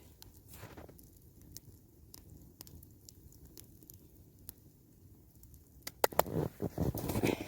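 Small campfire of kindling catching, crackling with scattered sharp pops; about six seconds in, louder crunching starts.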